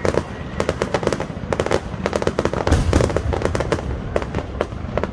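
Fireworks going off: rapid strings of crackling pops in clusters, with a deeper boom about three seconds in.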